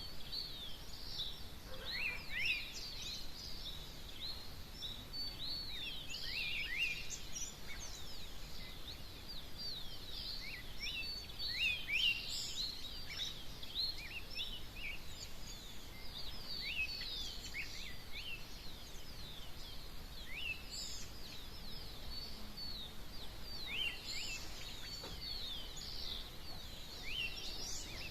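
A dawn chorus of many birds singing together: a steady stream of short, high chirps that sweep down in pitch and overlap.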